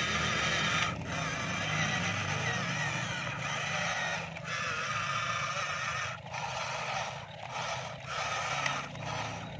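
A remote-control model long-reach excavator's electric motors whine as it works, cutting out briefly several times between movements.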